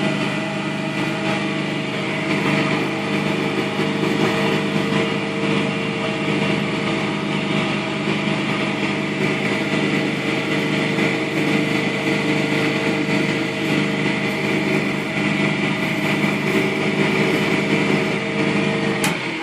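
Wood lathe running steadily, with a hiss of abrasive paper or mesh sanding the spinning oak. The sound cuts off with a click near the end.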